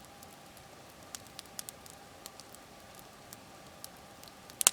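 Wood campfire crackling: scattered, irregular sharp pops, with a louder pair of snaps near the end.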